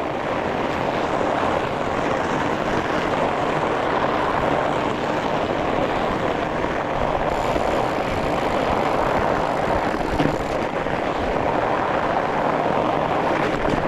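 Strong wind rushing steadily over the microphone of a rider on a fatbike crossing a frozen lake, with the fat tyres' rolling noise mixed in.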